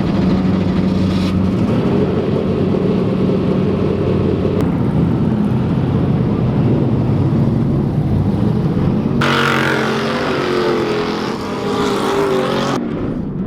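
Off-road racing engines running hard at high revs, the pitch rising and falling with the throttle; the sound changes abruptly a few times.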